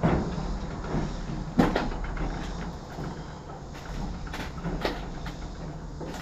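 A few irregular knocks and scrapes, the sharpest about a second and a half in, over a low steady rumble.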